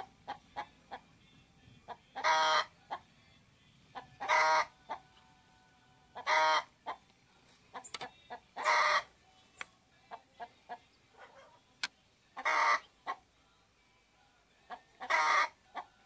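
A bird calling six times: a loud call about half a second long every two seconds or so, with short faint chips and ticks in between.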